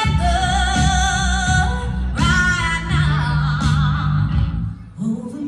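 A singer holding two long, wavering vibrato notes over musical accompaniment, with the music dropping away briefly near the end.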